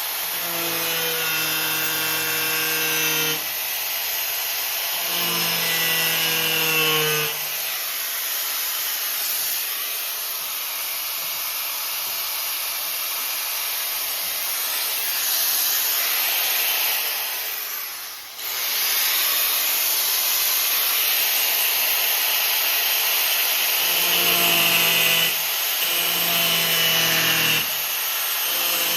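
Power tool cutting through a car's sheet-metal floor pan, making a loud continuous hiss. The motor's whine comes and goes as the cut loads it, and there is a brief let-up about two-thirds of the way through.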